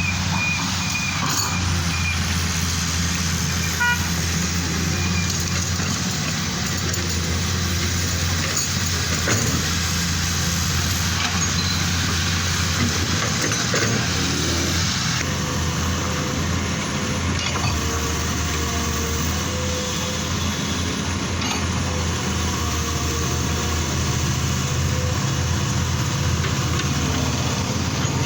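Heavy vehicle engines running with a steady low drone, with no break and no speech over it.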